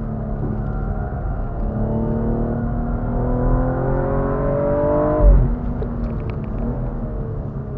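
BMW M135i xDrive's turbocharged 3.0-litre straight-six, heard inside the cabin, accelerating hard with its pitch rising steadily. About five seconds in, a gear upshift comes with a brief thump and the revs drop. The engine then pulls on from lower revs.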